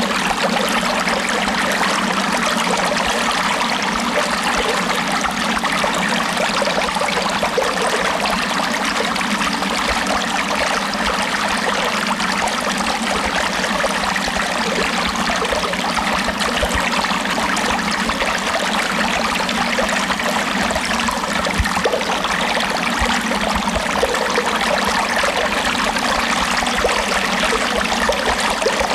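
Running water, a steady, even stream-like flow with no pauses or swells.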